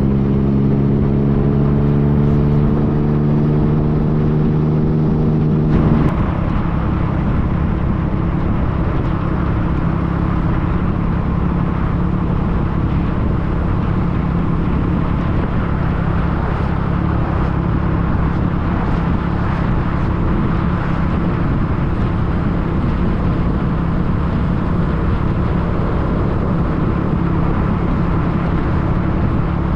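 Yamaha FJ-09 motorcycle's three-cylinder engine running at a steady speed while riding, with wind and road noise. About six seconds in the sound changes suddenly: the engine tone becomes much fainter under a steady rush of wind and road noise.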